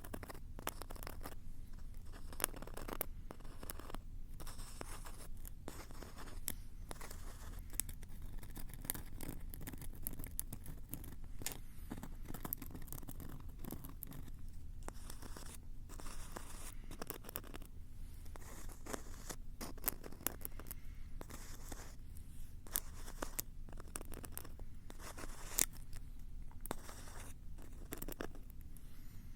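Close-miked scratching and rubbing on a Tascam recorder's microphones: a continuous run of irregular crackly scrapes and sharp clicks.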